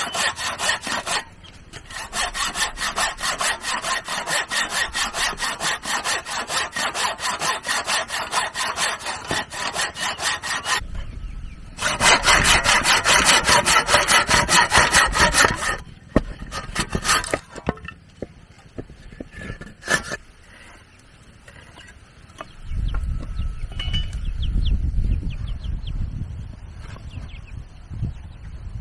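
Hand saw cutting through wood in quick, even back-and-forth strokes, pausing briefly near the start and getting louder for a few seconds past the middle. After that the sawing stops, leaving quieter scattered knocks and clicks.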